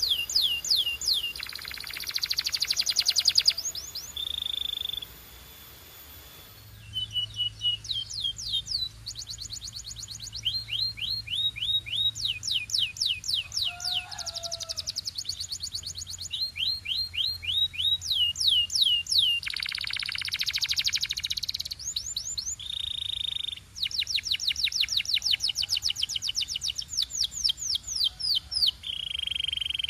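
Domestic canary singing: fast trilled rolls of rapidly repeated notes, broken by short steady whistled notes, with a brief pause about five seconds in.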